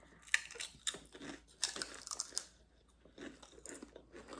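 Crunchy chips being bitten and chewed close to the microphone, a series of sharp crunches that come thickest about halfway through.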